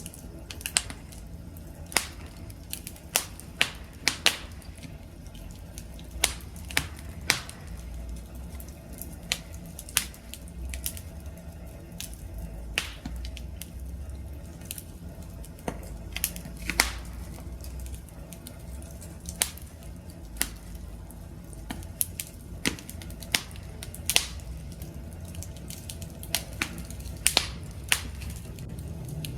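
Wood campfire crackling: irregular sharp pops and snaps from the burning wood, about one or two a second, over a steady low rumble of the flames.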